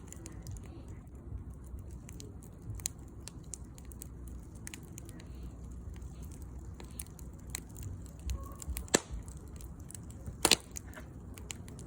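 Wood fire crackling in a fire stand: irregular small pops and snaps over a steady low rumble, with two loud sharp cracks about nine and ten and a half seconds in.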